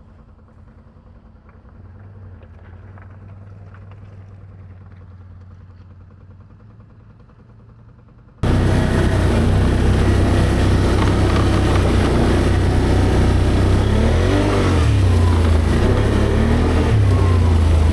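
ATV engines running on a trail, faint and low at first. About eight seconds in the sound jumps abruptly to a loud engine with a heavy rushing noise over it, and the engine pitch rises and falls as it revs.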